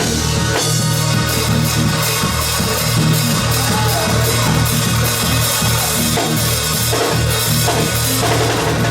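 Gospel music with a drum kit keeping a steady beat under a sustained bass line.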